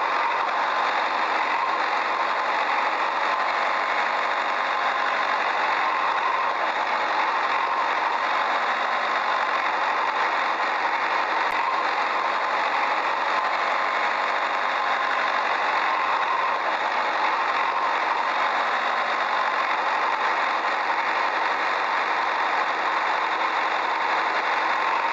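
An engine or motor running steadily at an even pitch and level, with no change in speed.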